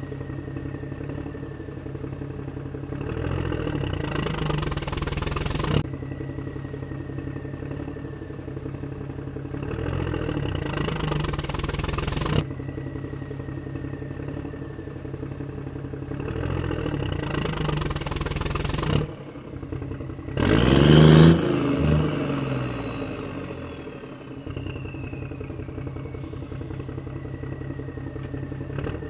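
Motor of a radio-controlled off-road truck running and revving up in repeated swells, each cut off sharply. The loudest rev comes about two-thirds of the way in, followed by a high whine that slowly falls in pitch.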